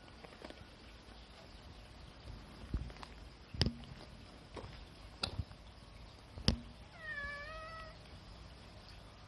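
A domestic cat meows once, a single call of just under a second late in the stretch, after a few sharp taps or clicks.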